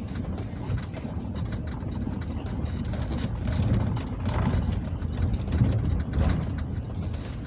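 Strong wind buffeting the microphone at the seashore: a low, gusting rumble that swells a few times, with scattered short knocks.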